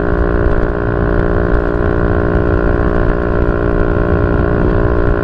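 Yamaha Y15ZR's 150cc single-cylinder four-stroke engine idling steadily through a YYPANG SD3 aftermarket exhaust.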